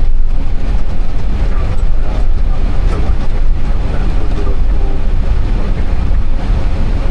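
Steady low rumble of aircraft cockpit noise, with faint voices under it.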